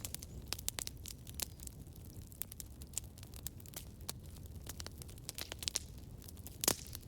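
Campfire crackling: irregular sharp pops and snaps over a low steady rumble of the burning fire, with one louder pop near the end.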